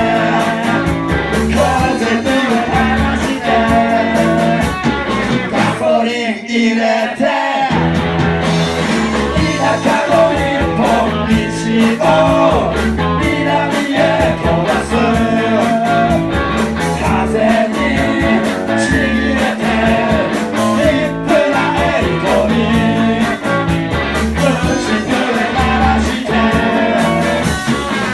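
Rock band playing live: electric guitar, bass and drums with a voice singing. The bass and drums drop out briefly about six seconds in.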